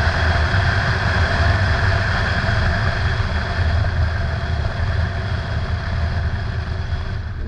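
2011 Ford Mustang's V6 engine running low and steady with road noise, slowly growing quieter as the car slows down after a hard quarter-mile acceleration run.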